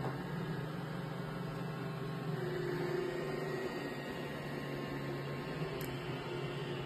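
iRobot Roomba Combo j5 robot vacuum running, a steady motor hum whose pitch shifts slightly a couple of seconds in.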